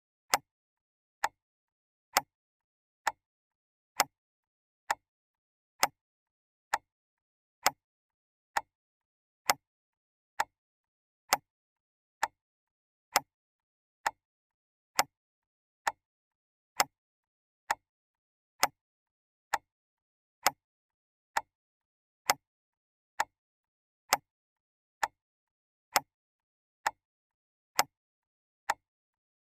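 Clock ticking steadily, one sharp tick a little under once a second, the ticks alternating slightly in loudness.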